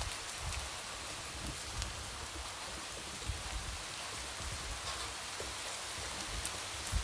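Light rain falling steadily, with scattered drops tapping on a window over an even hiss.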